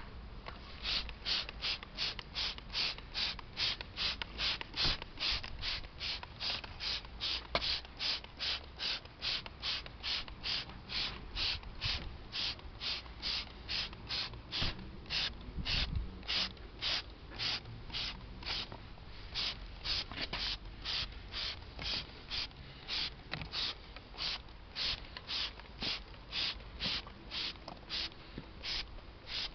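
Hand trigger sprayer squirting liquid engine degreaser onto a greasy engine in quick, regular hissing squirts, about two a second, beginning about a second in.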